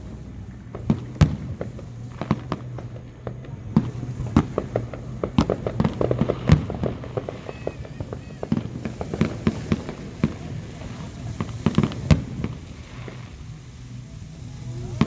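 Fireworks going off: a steady run of irregular bangs and pops, often several in quick succession, with a few louder booms standing out.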